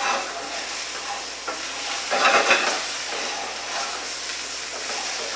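Spinach and sweet potato frying in a pan, sizzling steadily as they are stirred, with a louder scrape of the stirring spoon a little over two seconds in. The spinach is wilting down in the heat.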